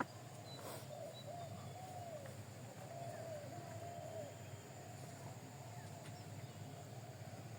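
Birds giving a string of soft, wavering calls, one after another, over a low steady hum.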